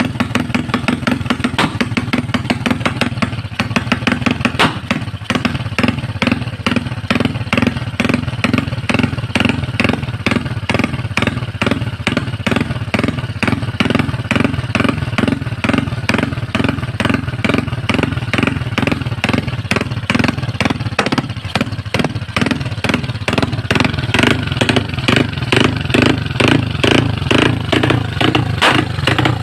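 Motorcycle engine idling through a full titanium open-pipe IT Salaya exhaust, tuned to an 'idle rumbler': a loud, steady, rhythmic lumpy pulsing.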